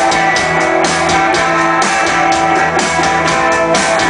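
Live rock band playing between sung lines: strummed electric guitars and a drum kit keeping a steady beat with bright cymbal hits.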